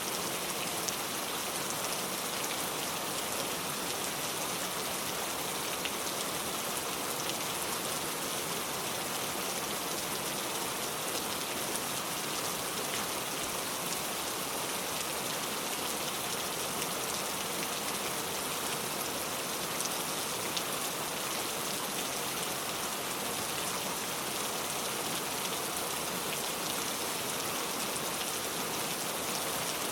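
Steady rain falling, an even hiss with scattered fine drop ticks and no change in intensity.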